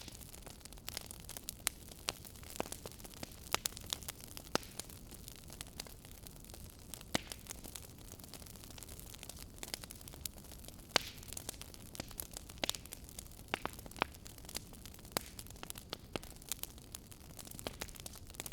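Wood fire in a fireplace crackling: sharp pops and snaps at irregular intervals over a steady low hiss.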